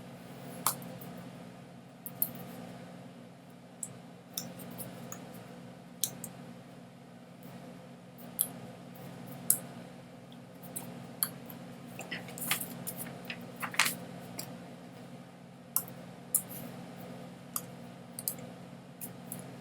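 Scattered sharp clicks and taps, irregular and roughly one a second, with a denser run about two-thirds of the way through, over a steady low hum.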